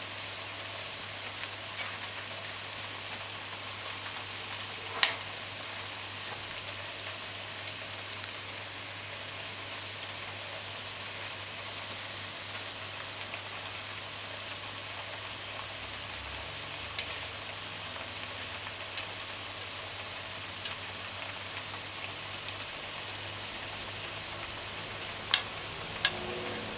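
Ripe plantain slices sizzling steadily in hot oil in a pot. There are a few sharp clicks, the loudest about five seconds in and two more near the end.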